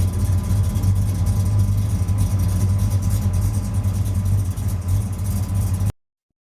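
A 406 cubic-inch small-block V8 in a 1982 Chevrolet S10 pickup idling with a deep, steady rumble. The sound stops abruptly near the end.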